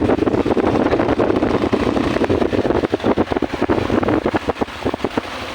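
Wind rushing and buffeting over the microphone of a moving motorcycle, heavy and rough, easing slightly near the end.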